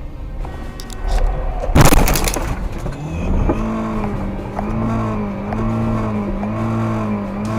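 A vehicle collision: a loud sudden smash about two seconds in, followed from about three seconds by a pitched sound that rises and falls over and over, roughly once every second.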